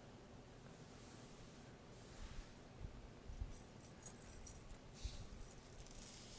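Faint handling of a purse, with its metal chain strap and hardware clinking lightly in small scattered clicks, starting about three seconds in.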